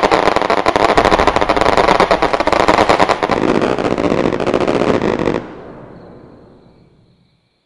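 Homemade electronic firecracker playing the dense, rapid crackle of a firecracker string. It stops abruptly a little over five seconds in, leaving a short fading tail.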